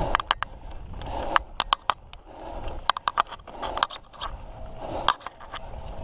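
Mountain bike clattering over a rough dirt trail, with tyres scraping the ground and irregular sharp knocks and rattles from the bike several times a second.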